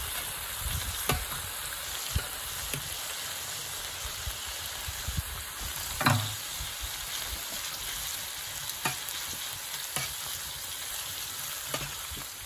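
Pork belly sizzling on an iron griddle: a steady frying hiss with scattered sharp clicks, and a louder knock about six seconds in.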